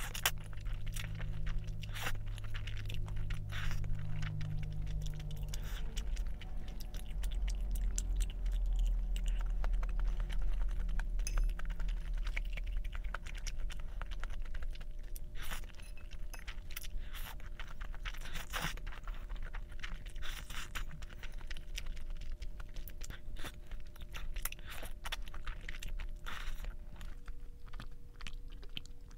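A person chewing food close to the microphone, with many short crisp crunches and clicks scattered throughout.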